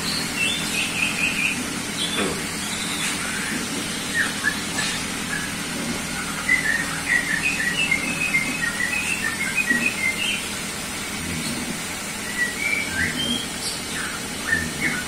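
Small birds chirping in quick runs of short, high chirps, busiest in the middle of the stretch.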